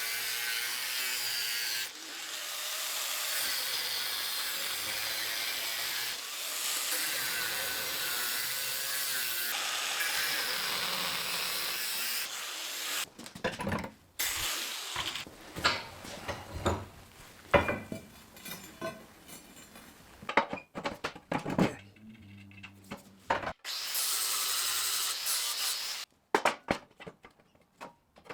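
A power tool working steel in several short stretches, a steady hissing run that stops and restarts abruptly. It is followed by a string of sharp knocks and clanks of metal being handled or struck, then one more short run of the tool.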